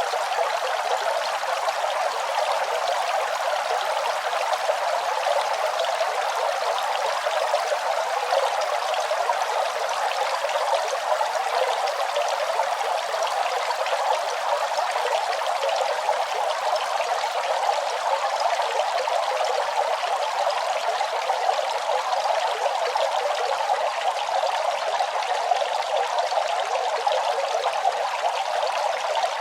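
Running water flowing and splashing in a steady, unbroken rush.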